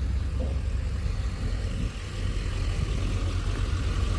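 Engine of a vehicle towing a trailer, running slowly and steadily with a low rumble.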